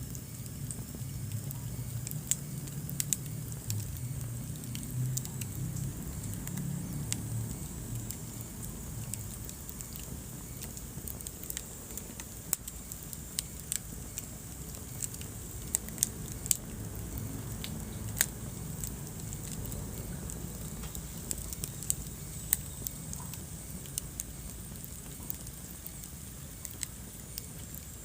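Wood fire burning in a fireplace: irregular sharp crackles and pops over a low rumble of flames, the rumble easing after about ten seconds.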